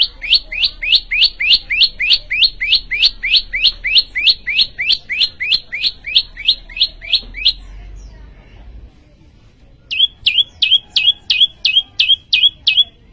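Prenjak lumut (a small prinia songbird) singing loudly: a long run of quick, evenly repeated rising notes, about three or four a second. After a pause of about two seconds comes a second, faster run of shorter notes.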